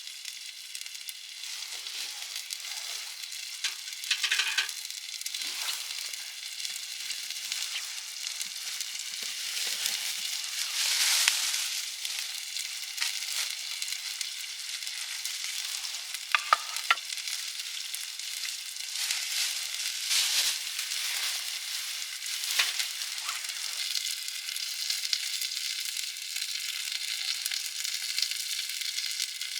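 Wood campfire crackling and hissing steadily, with scattered sharp pops and a few brief louder flare-ups.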